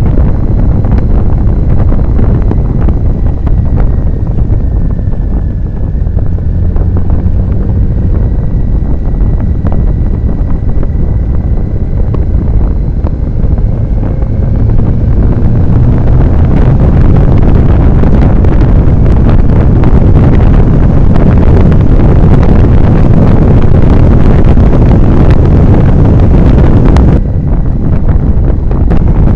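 Heavy wind noise buffeting the microphone of a moving motorcycle, a loud rushing roar that grows louder about halfway through and drops briefly near the end.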